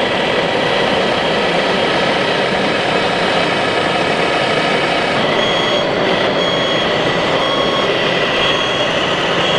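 1/14-scale RC model trucks running: a steady mechanical whine and rumble from their drives. A little past halfway, a reversing beep starts, repeating at an even pace.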